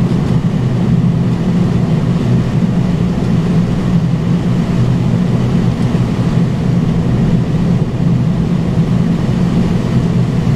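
Steady, loud flight-deck noise of a Boeing 767-300ER on final approach with gear down and flaps 30: an unbroken rush of airflow and engine noise, heaviest in the low range.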